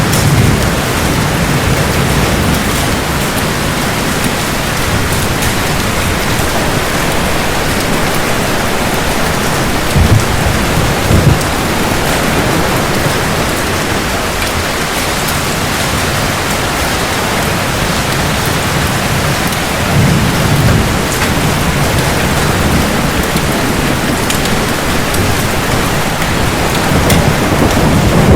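Heavy steady rain with low rumbles of thunder. Two short, louder thunder claps come about ten and eleven seconds in, another rumble comes around twenty seconds, and the thunder swells again near the end.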